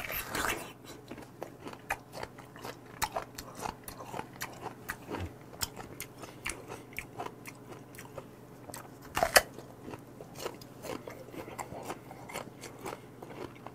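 A firm, crisp peach (a hard 'ddakddak' peach) bitten into close to the microphone, then chewed with many short crunches. A louder crunch comes about nine seconds in.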